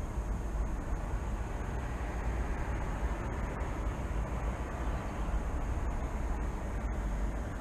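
Steady low rumble of city traffic ambience, with a faint steady high-pitched tone above it.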